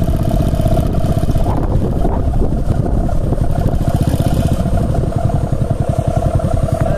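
Strong wind buffeting the microphone in a continuous, fluttering rumble, with a steady droning tone underneath that wavers in pitch about one and a half seconds in.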